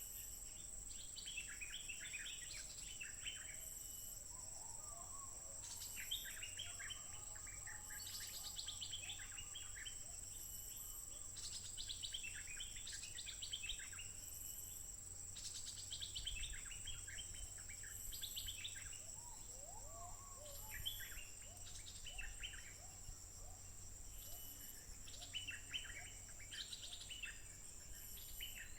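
Stripe-throated bulbul singing short chattering phrases of quick falling notes, repeated every couple of seconds, over a steady high insect drone.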